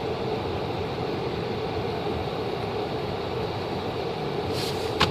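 A vehicle's engine running steadily with a constant low hum, and a sharp click at the very end.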